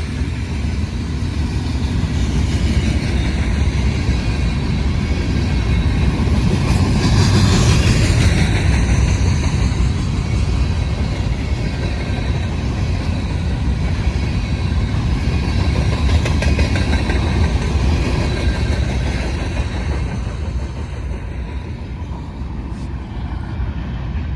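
Iowa Interstate freight train rolling past: a steady rumble of wheels on rail that swells about seven seconds in and eases off near the end.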